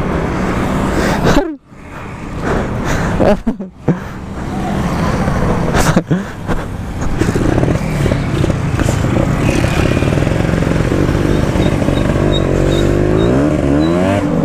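Motorcycle engine running on the move, with wind noise on the microphone. The sound drops off sharply twice in the first few seconds. Near the end the revs climb as the bike accelerates.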